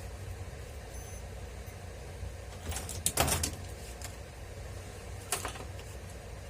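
Handling noise at a workbench: a short cluster of clicks and knocks about three seconds in, and another brief knock near the end, over a low steady hum.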